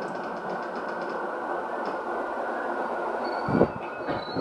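Cabin running noise inside the motor car of an E217 series electric train moving toward the end of the line: a steady rumble from wheels and motors, with two heavy thumps from the wheels on the track, one about three and a half seconds in and another at the end.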